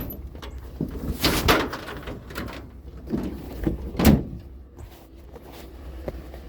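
A run of knocks and clatter, with the loudest sharp knock about four seconds in, over a low steady rumble.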